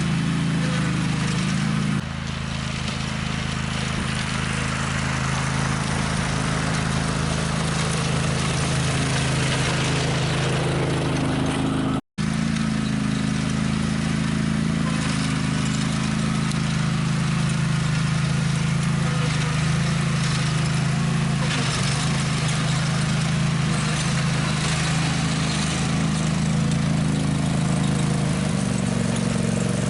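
Small gasoline engine of snow-removal equipment running steadily, with a brief dropout in the sound about twelve seconds in.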